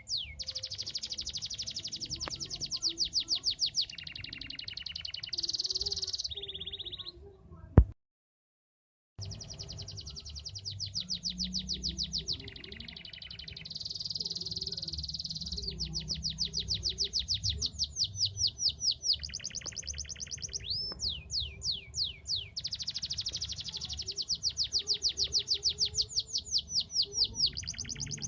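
Canary singing long trills, each a fast run of rapid repeated high notes, changing from one trill type to the next. A click about eight seconds in is followed by a second of dead silence, then the song resumes.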